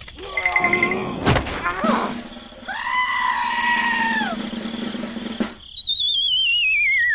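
A string of cartoon-style sound effects: a sharp knock about a second in, a held wailing call, then a wobbling whistle sliding down in pitch near the end.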